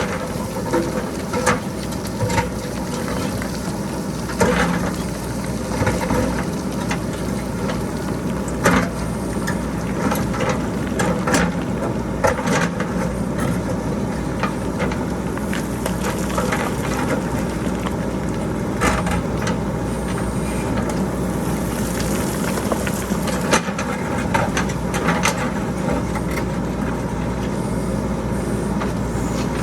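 JCB backhoe loader's diesel engine running steadily while rocks clatter down the hillside, with frequent sharp knocks of boulders and pebbles striking each other.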